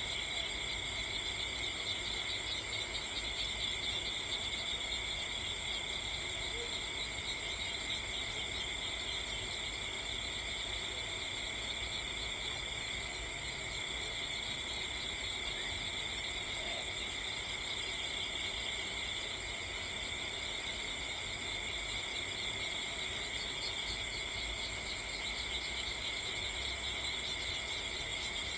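Steady, unbroken chorus of insects trilling at several high pitches at once.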